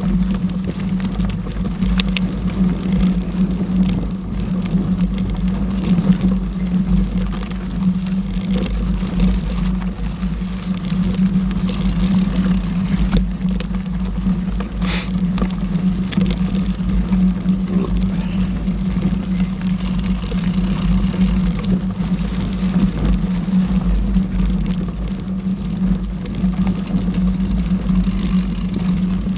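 Steady rumble of a mountain bike riding a forest trail, with wind buffeting the camera microphone, and one sharp click about halfway through.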